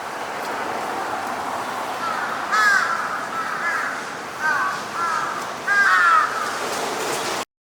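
Birds calling in a series of short, arched calls, about five of them in the second half, the last ones loudest, over a steady background noise; the sound cuts off suddenly just before the end.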